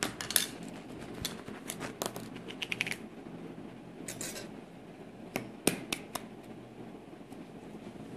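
Scattered clicks, taps and a brief scrape of small plastic items being handled, such as a Play-Doh tub and moulds, with a quick run of ticks in the middle.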